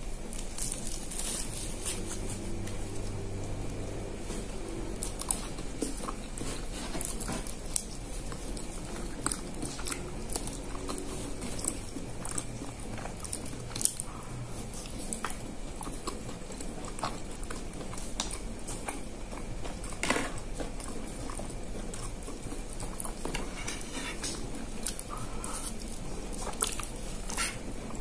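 Close-miked eating sounds: a banana-leaf wrapper being peeled off a rice cake, then chicken satay bitten off bamboo skewers and chewed, with scattered sharp clicks and small wet crackles over a steady low hum.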